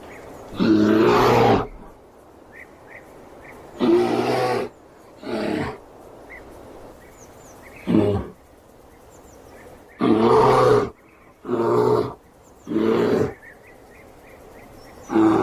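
Bear roaring over and over: a string of loud calls, each about half a second to a second long, with short pauses between them.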